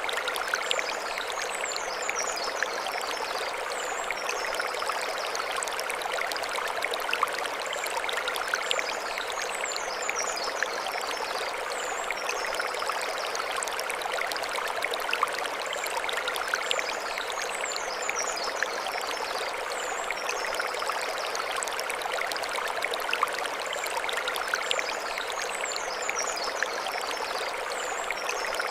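Mountain stream running steadily over stones, an even rushing splash. Short high chirps come in again every eight or nine seconds.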